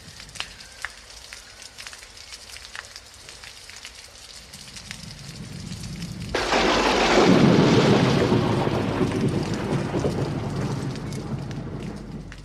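Thunderstorm: steady rain with scattered drop ticks, and a low thunder rumble building from about four seconds in. A little past six seconds a sudden loud thunderclap breaks and then rolls on, fading slowly.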